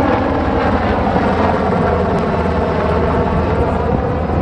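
Helicopter flying overhead: a loud, steady rotor and engine drone.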